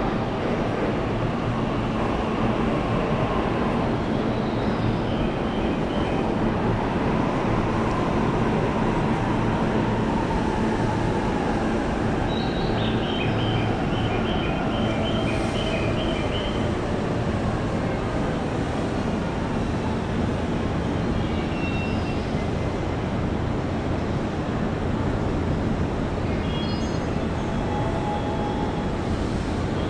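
Electric train running in the station: a steady rumble with a low hum and a faint whine that rises and then falls.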